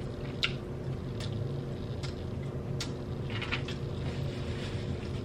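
Chewing and mouth clicks from someone eating, a handful of short sharp clicks about a second apart with a quick cluster a little past halfway, over a steady low hum.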